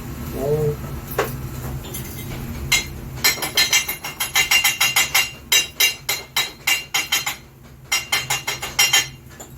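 A hammer striking metal in quick repeated blows, about four a second, each with a short metallic ring. The blows pause briefly near the end and then resume.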